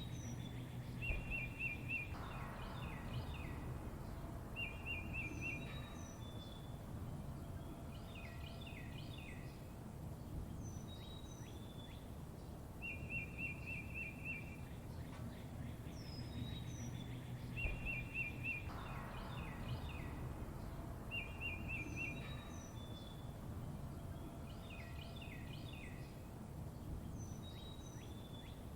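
Several songbirds chirping: short, fast trills, quick falling whistled notes and high chirps, over a low, steady background rumble. The same sequence of calls recurs about every 16 seconds, as a looped recording does.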